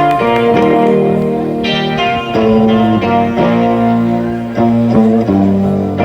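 Guitar playing the instrumental intro of a song live, with sustained chords changing about once a second and no vocals yet.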